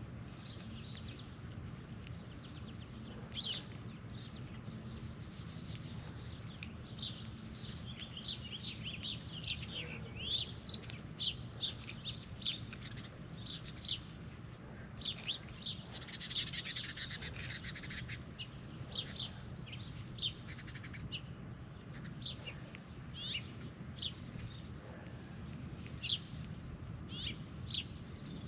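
Birds chirping: many short, high chirps scattered through the whole stretch, some in quick runs, over a steady low hum.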